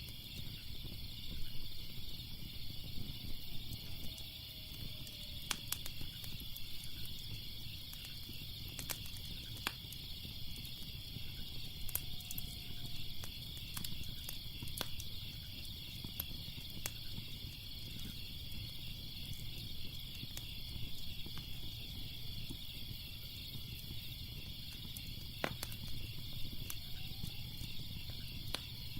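Crackling fire with sharp pops scattered throughout, over a low rumble. Underneath, a steady chorus of crickets chirping.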